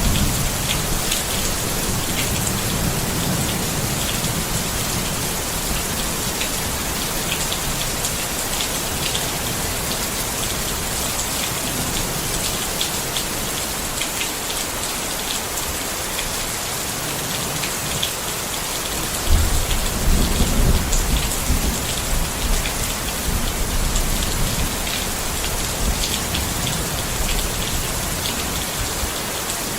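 Steady rain pattering on a tent, with individual drops ticking. Low rolls of thunder rumble near the start and again, louder, about two-thirds of the way through.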